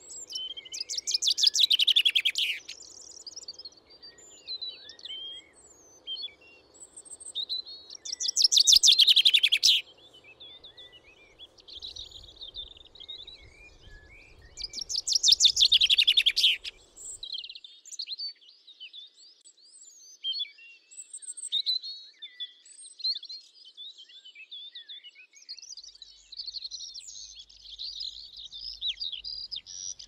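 Songbirds chirping, with one louder bird repeating a rapid trill that falls in pitch three times, several seconds apart.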